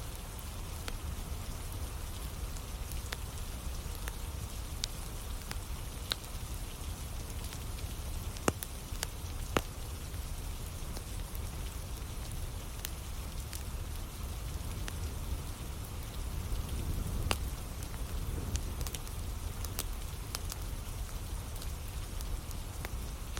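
Steady rain falling, with a wood fire crackling and popping now and then; two louder pops come about a second apart around nine seconds in.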